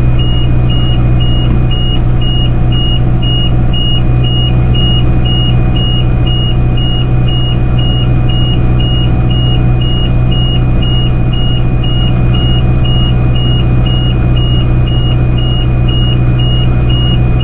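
John Deere tractor and string baler running steadily, with a continuous electronic warning alarm beeping over it, alternating between two pitches about two to three times a second.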